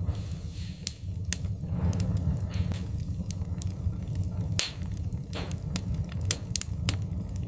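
Wood fire crackling in a fireplace: sharp, irregular pops and snaps over a steady low rumble of the burning logs.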